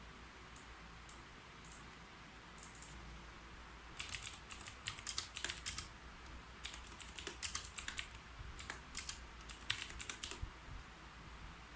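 Typing on a computer keyboard: a few scattered key clicks, then, from about four seconds in, two fast runs of keystrokes with a short pause between them.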